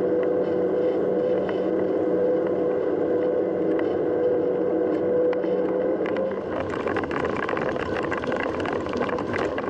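Mountain bike riding noise: a steady hum that gives way about six seconds in to a rough rattling noise full of small ticks and knocks.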